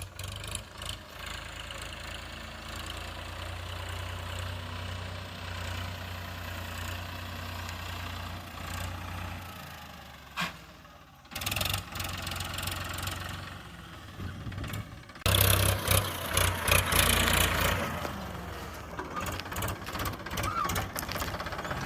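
Tractor engine running steadily, louder and rougher for a few seconds about two-thirds of the way through.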